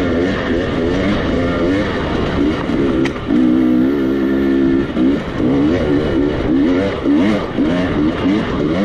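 Off-road motorcycle engine revving up and down over rough ground, the throttle opening and closing every fraction of a second. It holds a steadier pitch for a second or two near the middle, and there is one sharp click about three seconds in.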